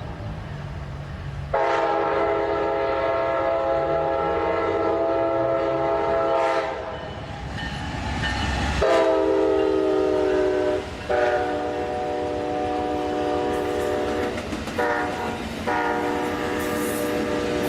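Locomotive multi-chime air horn sounding a long blast, then long, long, short, long: the grade-crossing warning signal. A locomotive engine rumbles underneath.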